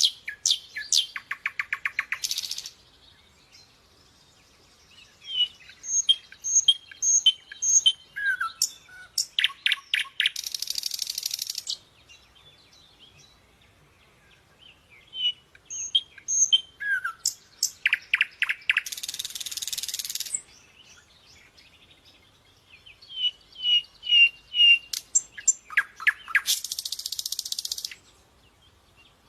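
A songbird singing in repeated phrases of chirps and whistled notes, each phrase ending in a harsh, buzzy trill about a second long. New phrases come every eight seconds or so, with short quiet gaps between.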